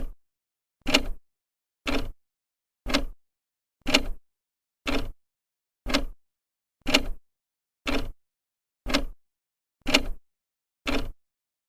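An old clock ticking as its second hand advances, one sharp tick each second, evenly spaced.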